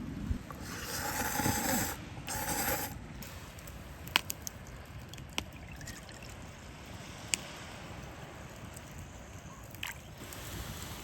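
Wood campfire crackling with a few scattered sharp pops over a low, steady rumble. Two short hissing bursts come in the first three seconds.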